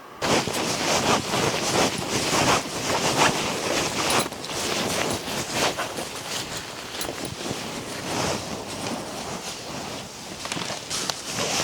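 Strong wind blowing in gusts, surging and easing in loudness. It starts abruptly just after the beginning.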